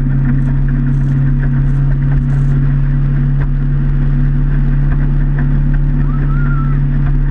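Motorboat engine running at a steady pitch, a constant low drone with water and wind noise over it.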